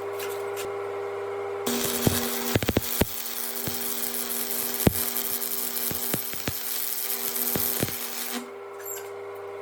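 Stick welding rusty steel with a 1/8-inch 6011 rod at 105 amps: about two seconds in the arc strikes and crackles and sizzles for about six and a half seconds, with a cluster of sharp pops near its start, then breaks off. A steady hum runs underneath.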